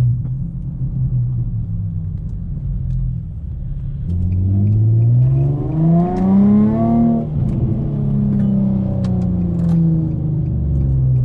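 Infiniti G35's 3.5-litre VQ35DE V6 with a Z1 Y-back exhaust, heard from inside the cabin. It runs steadily, then revs up under acceleration for about three seconds. The pitch drops sharply as the automatic shifts up, and it settles back to a steady run.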